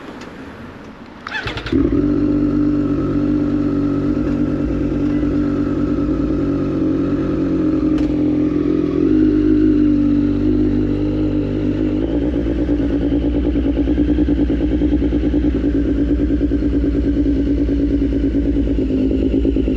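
Triumph Street Triple 765 RS inline-three with a Racefit Growler full exhaust starting up about a second and a half in, then running steadily at low revs. Its pitch shifts slightly a couple of times.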